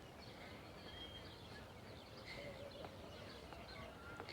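Small birds chirping and twittering faintly, many short chirps over a steady low background rumble.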